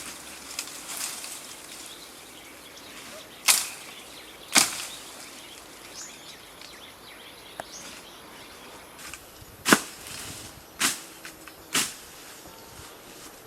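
Five sharp chopping strikes, two about a second apart, then three more about a second apart some five seconds later, each with a short ringing tail.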